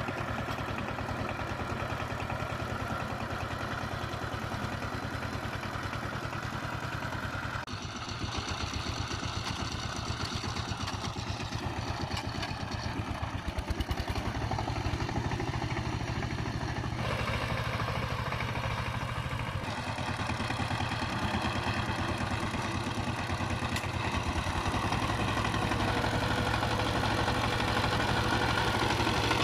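Power tiller's diesel engine running with a fast, steady chugging beat; its tone changes abruptly a few times.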